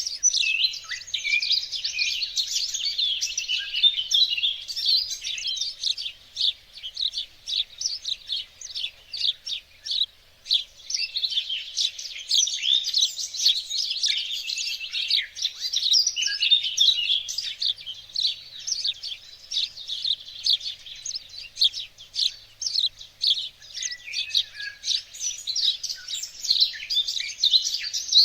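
Many songbirds singing and chirping together in a garden, a dense, continuous chorus of quick high chirps and trills.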